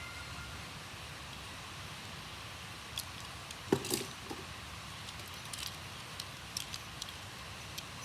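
Small diecast toy cars being handled: scattered light clicks and taps, with one louder knock just under four seconds in.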